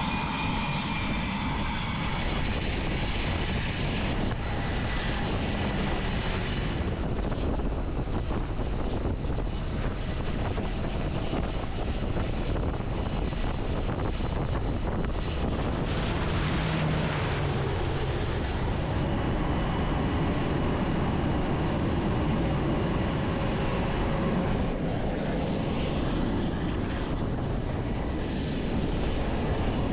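Aircraft engines running: dense, steady, loud engine noise with a faint high whine over it.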